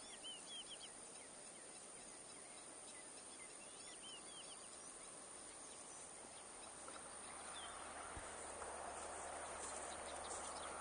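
A small songbird giving two short runs of quick, high chirps, the first right at the start and the second about four seconds in, with a single note later. Beneath it is faint outdoor background noise that grows louder over the last few seconds.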